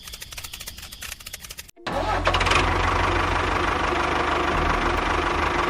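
A small engine or motor: quick, even ticking at first, then, after a short break, running loudly and steadily with a deep hum.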